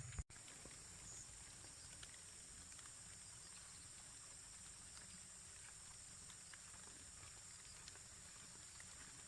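Steady rural outdoor ambience: a constant high insect drone with faint scattered ticks, broken by a brief dropout just after the start.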